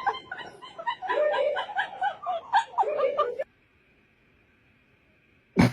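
High-pitched laughter and giggling that cuts off about three and a half seconds in, followed by silence and a short sharp sound near the end.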